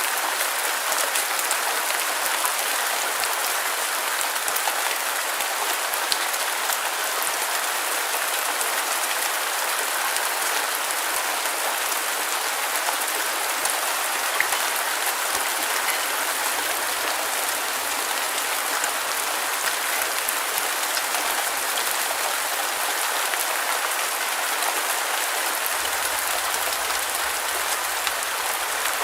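Steady rain falling and pattering on a surface, with scattered drop ticks.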